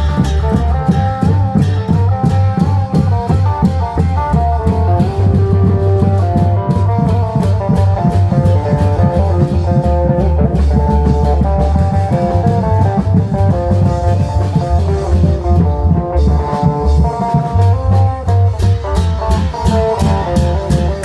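Isan klong yao long-drum band playing live and loud: a phin lute picks a fast melody of short notes over steady drumming, cymbals and a heavy bass line.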